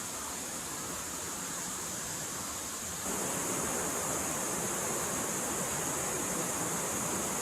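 Forest stream flowing, a steady rush of running water; about three seconds in it becomes louder and fuller in the low end.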